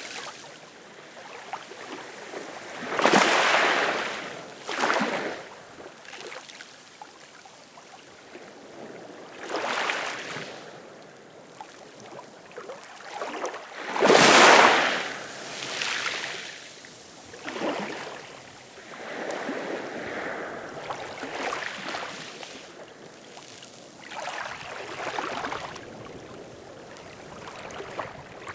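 Ocean waves breaking and washing up, in irregular surges every few seconds; the loudest wave comes about halfway through.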